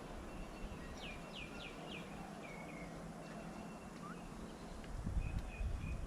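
Wild birds calling: a run of four quick downward-sliding whistled notes about a second in, a few lower notes after, and short repeated notes near the end, over a steady outdoor background. Low rumbles come in during the last second.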